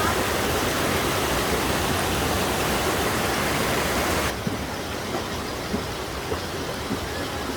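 Mountain water rushing steadily. About four seconds in it cuts abruptly to a quieter, duller rush with a few small knocks.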